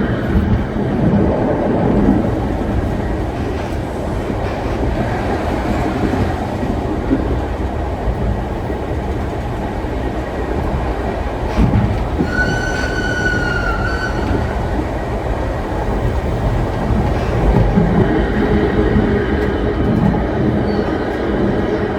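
Heritage railway carriage running along the track, a steady rumble of wheels on rails. A little past the middle a single high steady tone with overtones sounds for about two seconds.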